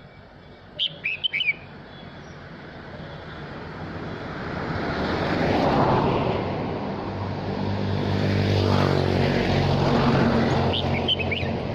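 A red-whiskered bulbul gives a short burst of chirps about a second in and again near the end. Between them an aircraft passing over swells up with a steady engine drone and becomes the loudest sound.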